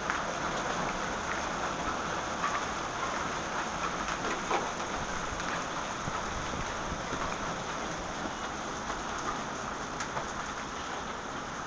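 Rain pouring down in a steady hiss, with a few faint sharp ticks now and then.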